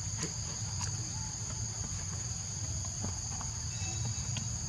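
Steady insect chorus, a continuous high buzz at two pitches, over a low rumble with a few faint clicks.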